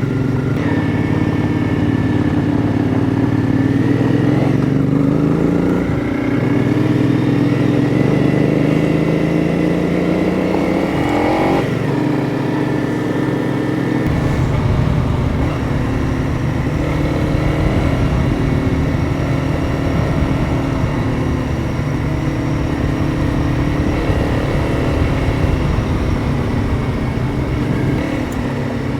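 Single-cylinder engine of a Honda CRF 300 Rally motorcycle accelerating away through the gears: its pitch climbs, drops sharply at a gear change about six seconds in and again a little after eleven seconds, then it runs on at a steadier cruising pitch.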